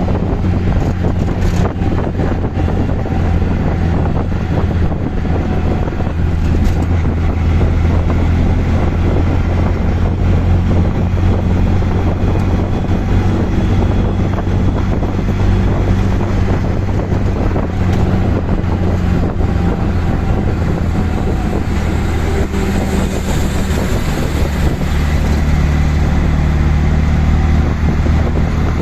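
Auto-rickshaw's engine running steadily on the move, with road and wind noise. The engine note shifts slightly about three-quarters of the way through.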